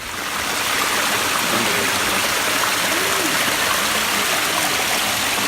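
Stream water rushing steadily over rocks, a dense, even hiss that comes in suddenly at the start.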